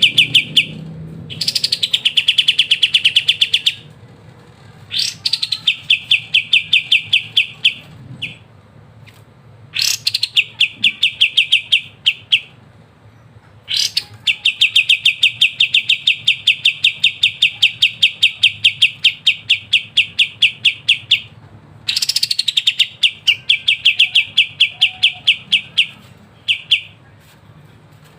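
Kapas tembak bulbul singing its rattling 'ngebren' trill: phrases of very fast, evenly repeated high notes, about ten a second, each opening with a quick downward sweep. Six phrases come in turn, most one to three seconds long, one running about seven seconds, with short pauses between them.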